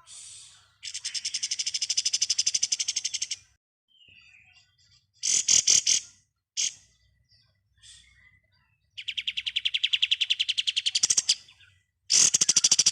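Pied triller (kapas tembak) singing its rapid 'ngebren' song: three long, fast rattling trills of quickly repeated high notes, with a few short calls between them.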